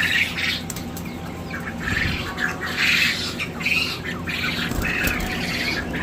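Caged birds giving short, harsh calls in quick clusters, busiest in the middle.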